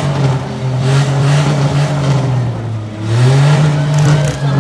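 Compact demolition derby car engines running and revving, the pitch dipping and then rising about three seconds in.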